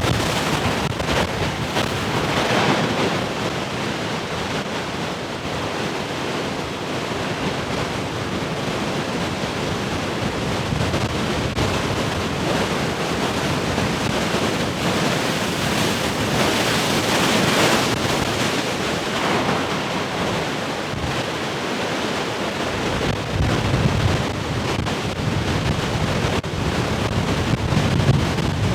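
Heavy ocean surf crashing and washing in steady waves, with swells about 2–3 s and 16–18 s in. Wind buffets the microphone, adding low rumbling gusts near the end.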